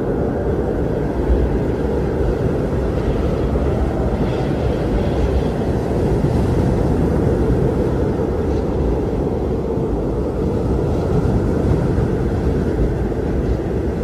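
Strong wind blowing steadily, a deep rushing noise with no let-up.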